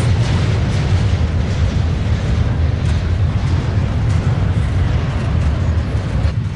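Long double-stack intermodal freight train rolling past: a loud, steady, deep rumble of wheels and cars on the rails with light rattling clicks.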